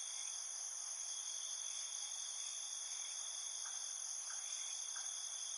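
Crickets trilling in a steady, high-pitched chorus, unbroken throughout.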